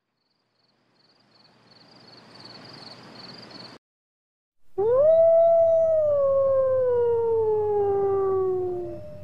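Wolf howling: one long howl that rises quickly, then slides slowly down in pitch, with a second, higher howl starting near the end. Before the howl, a faint hiss with a quick high chirping.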